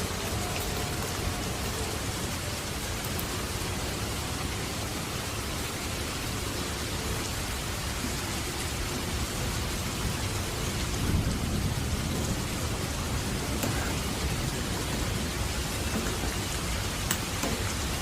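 Steady heavy rain falling on surfaces, an even hiss throughout, with a brief low swell about eleven seconds in.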